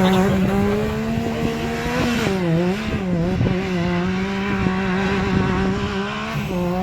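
Off-road vehicle engine held at steady high revs, its pitch dipping and recovering a few times around the middle.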